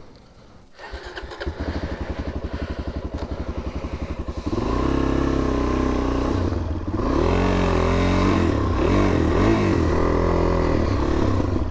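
Suzuki DR-Z400 single-cylinder four-stroke engine idling with an even beat, then pulling away about four seconds in, its pitch rising and dropping through several gear changes as the bike accelerates.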